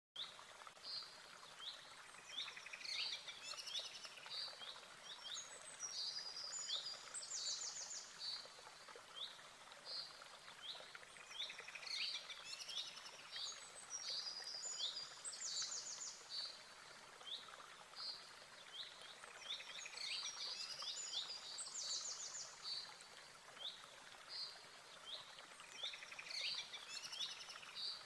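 Birds chirping and trilling: many short, high notes and quick trills, coming and going throughout over a faint steady hiss.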